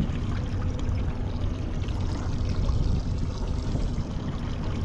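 Water sloshing and trickling against a small fishing boat's hull, a steady wash with a low hum under it. A single short knock comes right at the start.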